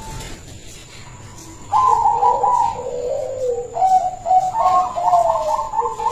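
Zebra dove (perkutut) cooing: after a quieter start, a phrase of quick, rolling notes begins just under two seconds in and runs on, mixed with lower drawn-out coos.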